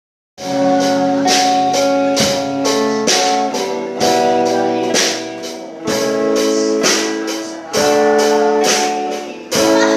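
Live church band starting a song: sustained chords over a drum kit keeping a steady beat, with cymbal strikes about twice a second. The music comes in about half a second in.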